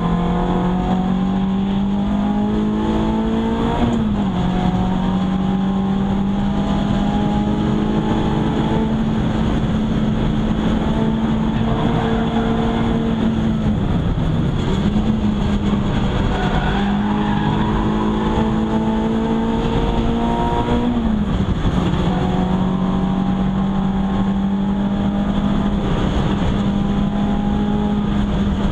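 Renault Clio 172's four-cylinder engine pulling hard under full throttle, heard from inside the stripped cabin. Its pitch climbs steadily and drops sharply at upshifts about 4 and 21 seconds in, with a brief dip near the middle. Steady tyre and wind noise runs underneath.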